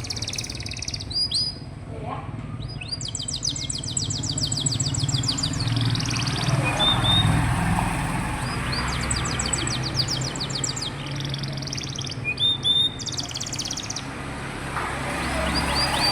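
Domestic canary singing. Rapid rolling trills of quickly repeated high notes are broken by short chirps and brief whistled notes, over a low steady background hum.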